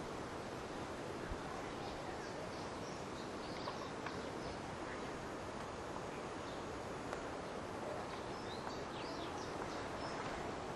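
Small birds chirping, with short high calls scattered throughout, over a steady rushing background noise.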